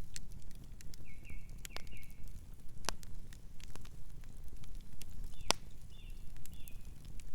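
Campfire crackling: wood snapping in scattered sharp pops, the two loudest about three and five and a half seconds in, over a steady low rumble of the burning fire. Short high chirps come twice in the background.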